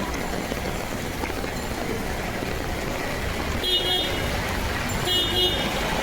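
A vehicle horn toots twice, each blast short and about a second and a half apart, over a steady hiss of rain and street traffic.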